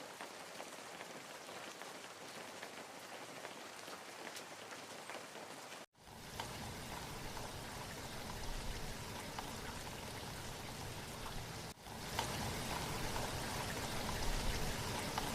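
Steady rain falling, an even patter. It cuts out briefly about six seconds in and again about twelve seconds in, and each time comes back fuller and deeper.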